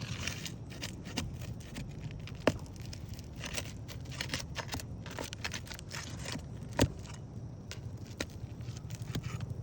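A prying tool scraping and working under asphalt shingles to break their seal and pull nails, with gritty crackling scrapes, light clinks and two sharp knocks, about two and a half seconds and seven seconds in.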